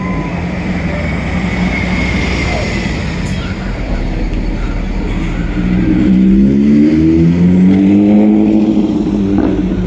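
Heavy truck engine running, then picking up revs about six seconds in, its pitch rising and growing louder as it accelerates.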